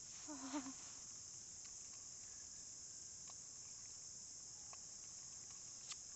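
A steady, high-pitched chorus of insects. Just under a second in, a short wavering voice-like call stands out over it, and a few faint ticks follow.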